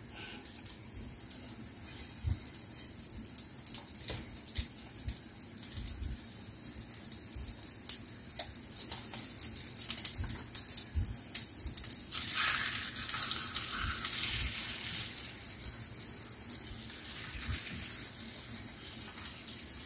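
Egg-dipped beef slices (yukjeon) frying in oil in a pan: a steady, crackling sizzle dotted with small clicks. About twelve seconds in, the sizzle swells for a few seconds as another egg-coated slice is laid in the hot oil.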